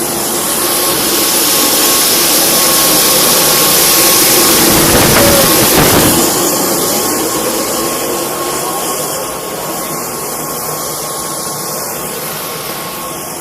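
Boeing 787's auxiliary power unit (APU) running: a steady turbine whine over a loud rushing noise, loudest in the middle and then easing off.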